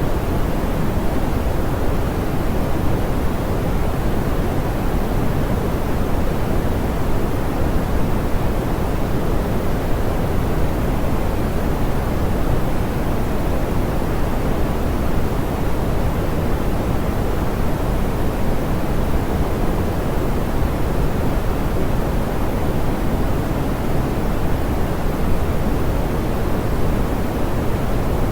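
Soft, smoothed pink noise: a steady, even hiss weighted toward the low end, with no change or events.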